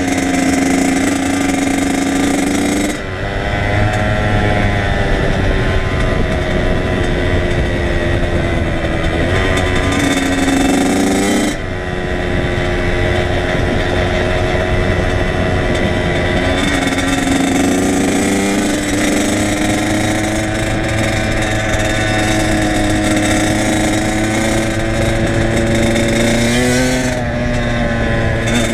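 Kawasaki KX100's two-stroke single-cylinder engine running while the bike is ridden, its note climbing and then dropping sharply several times as the revs change.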